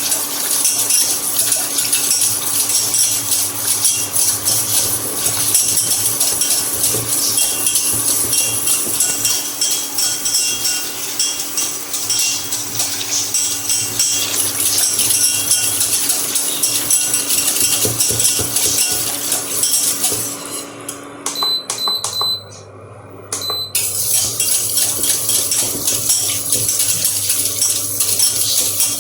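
Hand whisk beating milk in a pan, a rapid continuous metallic rattling and clatter against the pan, as the milk is worked into a froth. The whisking stops for about three seconds a little after two-thirds of the way through, then resumes.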